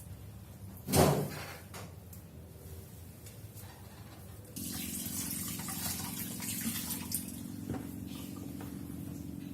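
A single knock about a second in, then a kitchen tap is turned on about halfway through and water runs steadily into the sink.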